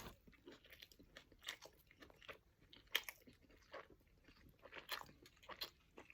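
A person chewing food close to the microphone: faint, irregular crunches and mouth sounds, a few to each second.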